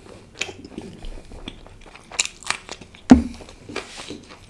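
Close-miked chewing of a large mouthful of naan with meat curry: wet, crunchy clicks and smacks of the mouth, with one sharper, louder click about three seconds in.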